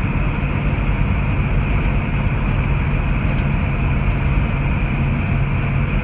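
Grain truck's engine running with road noise, heard from inside the cab: a loud, steady low drone.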